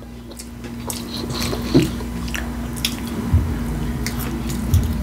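Close-up eating sounds: a person chewing and biting into a taco salad, with scattered short clicks and a few soft thuds over a faint steady hum.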